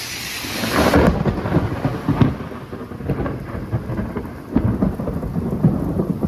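Thunder from a cloud-to-ground lightning strike: a loud crack about a second in, then rumbling with sharp crackles, over steady rain.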